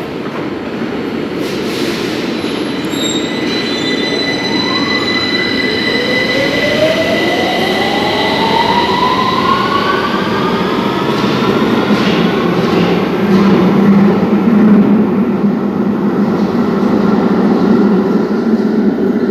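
London Underground Victoria line train, 2009 Stock, rumbling through the station. From about five seconds in, an electric whine rises steadily in pitch as the train picks up speed, over constant wheel and track noise.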